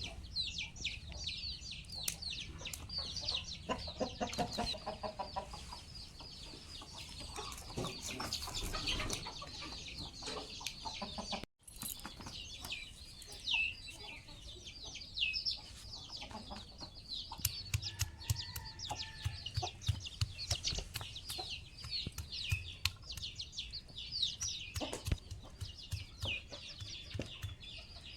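Village chickens clucking, with a steady run of many short, high, falling chirps over lower calls. The sound cuts out for an instant about halfway through.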